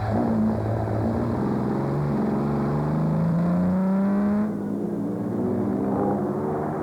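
Classic car engine accelerating hard uphill, its pitch climbing steadily, then easing off about four and a half seconds in before another engine note takes over.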